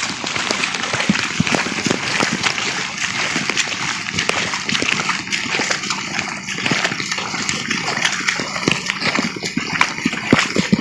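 Floodwater splashing and sloshing against a pickup truck as it drives through a flooded street, a steady crackling wash of water.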